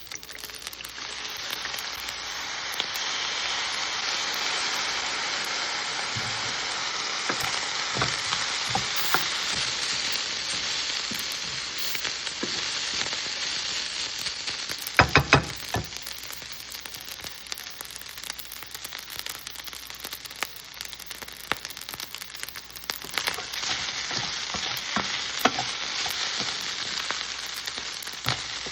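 Fried rice sizzling in a hot pan while being stirred, with scattered clicks of the utensil against the pan. About halfway through comes a quick run of several louder knocks.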